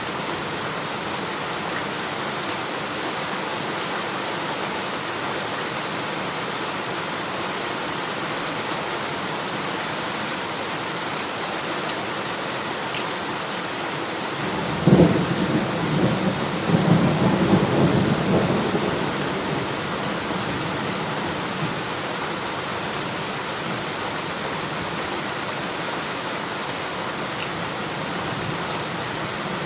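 Steady rain falling. About halfway through, a sudden clap of thunder rumbles for several seconds before fading back into the rain.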